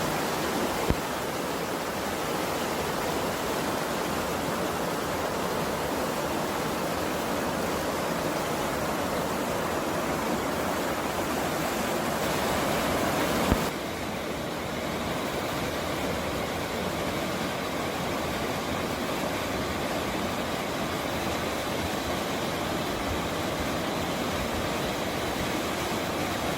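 Steady rushing of a mountain stream. The sound changes abruptly about halfway through, and there is a small click about a second in.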